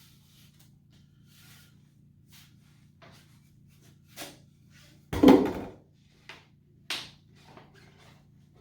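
Handling noise from unpacking a poster: scattered light rustling and scraping, with one loud thump about five seconds in and a shorter knock near seven seconds.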